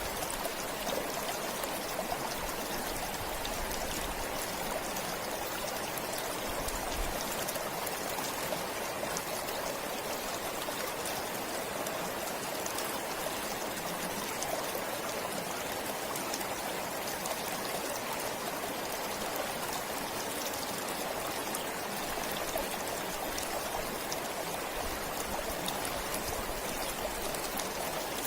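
A stream flowing steadily: an even, unbroken rush of water with fine splashing.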